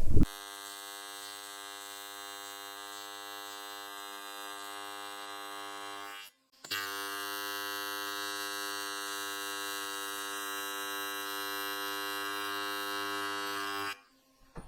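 AC TIG welding arc on thick aluminium, a steady electrical buzz. It cuts out briefly about six seconds in, restarts a little louder and stops abruptly near the end.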